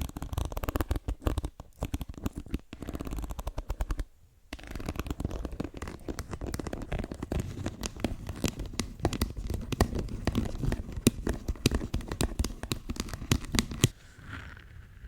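Fast tapping and scratching with fingertips or nails, a dense run of sharp clicks over a rustling scrape. It pauses briefly about four seconds in and stops near the end.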